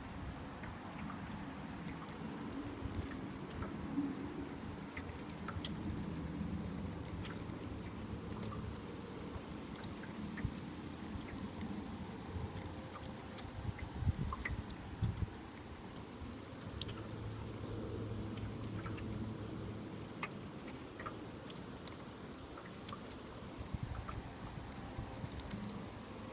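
Rain dripping: scattered drops ticking irregularly over a faint steady hiss.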